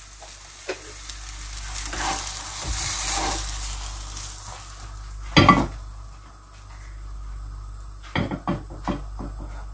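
Egg-battered eggplant slice sizzling in a frying pan, with a loud clatter of utensils about five and a half seconds in as it is lifted out with a spatula and fork. Near the end come a few short clinks of cutlery on the pan and plate.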